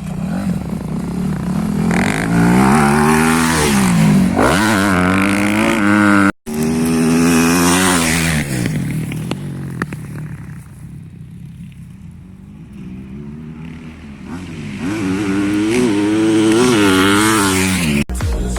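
Motocross dirt bike engine revving hard and falling back again and again as the rider goes through the gears and off the throttle. It fades for a few seconds in the middle and then comes back louder.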